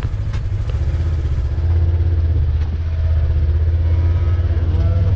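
Farm tractor engine running steadily at low speed, moving slowly among cattle, with a few light clatters. A cow starts to moo right at the end.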